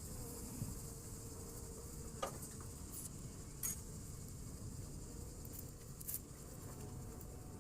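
Honeybees buzzing around an open hive, a steady faint hum, with a few light clicks scattered through it.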